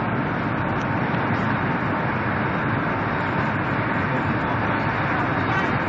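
Steady rushing noise inside the passenger cabin of a high-speed bullet train running at speed.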